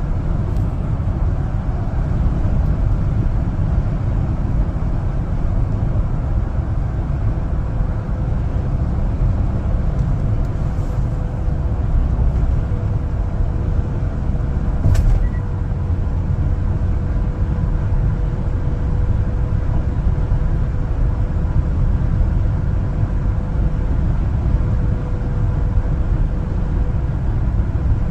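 A one-ton LPG cargo truck driving: a steady low engine and road rumble, with a faint steady whine over it and a single short tick about halfway through.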